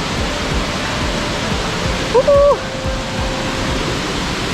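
Waterfall's steady rush of falling water, with one short pitched call about two seconds in that rises, holds briefly and drops.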